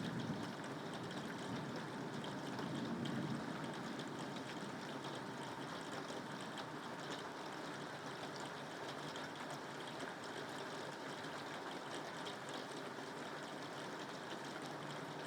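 Steady rainfall: an even hiss of rain with fine drop ticks throughout, and a low swell near the start and again about three seconds in.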